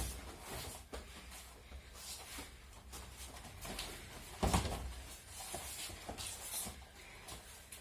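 A person landing a breakfall on tatami mats during aikido practice: one heavy thud about four and a half seconds in, with lighter knocks and the rustle of uniforms and feet on the mats around it.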